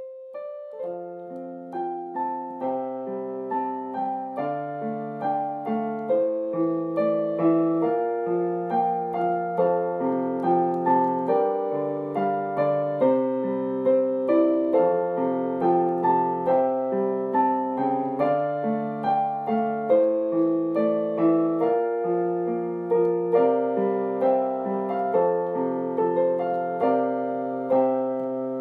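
Background music: a solo piano playing a gentle, flowing melody with arpeggiated chords at an even pace.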